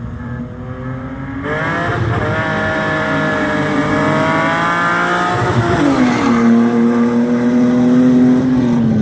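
Two cars, a BMW 335i on nitrous and a gutted Mitsubishi Mirage, racing past at full throttle. The engine note jumps up about a second and a half in and climbs steadily as they close in, drops sharply in pitch as they pass, then holds a lower note that falls away near the end as they pull off.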